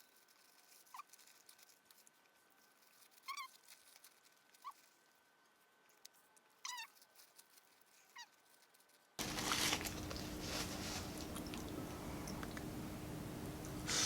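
Near silence broken by five or six short, faint bird-like calls, each dropping in pitch, spaced a second or two apart. About nine seconds in, a steady room hum cuts back in abruptly and stays louder.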